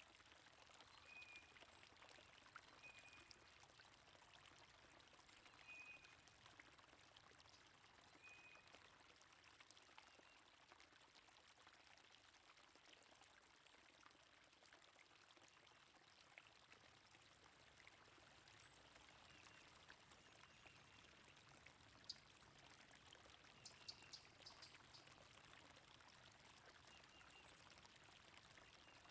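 Faint flowing stream water running steadily, with short, scattered songbird chirps over it.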